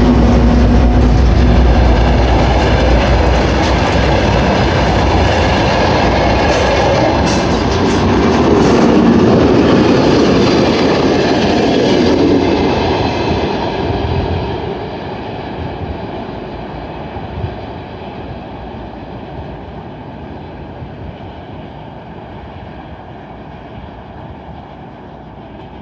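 Maintenance train behind a 2M62 diesel locomotive rolling past on the rails: the locomotive's engine drone fades within the first couple of seconds, then the wheels of the wagons clatter past loudly, and the noise dies away steadily over the second half as the train moves off.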